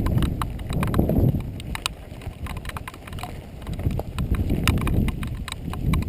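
Giant XTC 3 composite mountain bike rattling over a rough dirt trail: a steady run of irregular clicks and knocks over a low rumble that swells and fades.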